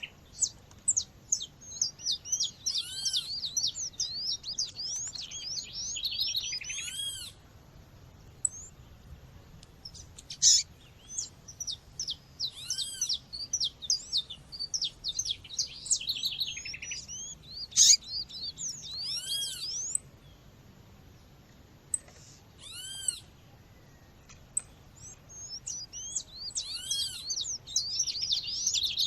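Female Sporophila seedeater (coleiro / papa-capim type) calling: short arched chirps repeated about every three seconds. Bouts of fast, busy twittering from other birds come and go between them, and there are two sharp clicks.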